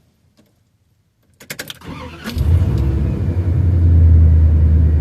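A few sharp clicks, then the 1992 Dodge B250 van's engine cranks briefly and starts about two seconds in, settling into a loud, steady run. The engine is freshly tuned up and runs without misfiring, to the owner's ear.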